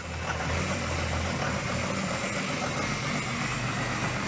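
Diesel truck engine running just after catching on a cold start at about −35°, a rough first idle. A heavier low rumble in the first second or so eases into a steadier idle.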